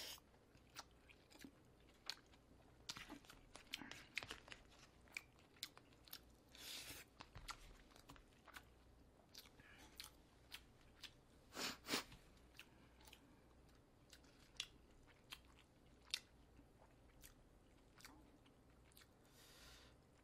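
Faint close-miked chewing of a mouthful of rice mixed with stew, with many small wet mouth clicks and smacks scattered throughout and a slightly louder one about 12 seconds in.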